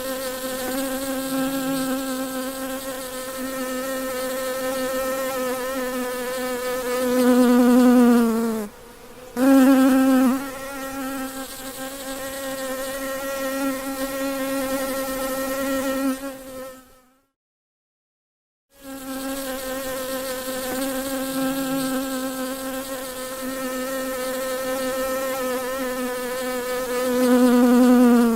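A single honey bee buzzing close up, a steady wingbeat hum with a rich overtone. Twice the buzz swells louder and sags slightly in pitch before briefly breaking off, and about midway it stops for roughly two seconds.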